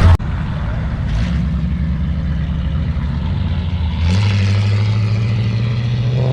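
A car engine running at a low, steady idle, stepping up to a slightly higher, louder speed about four seconds in and holding there.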